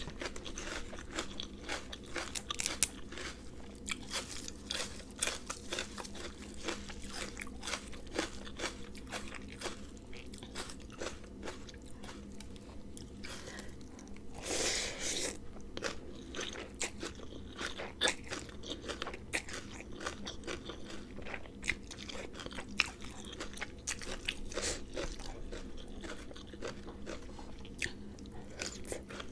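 Close-miked eating: a person biting and chewing a noodle salad with raw vegetables, giving rapid, irregular crunches and wet chewing. A longer hissing sound comes about halfway through.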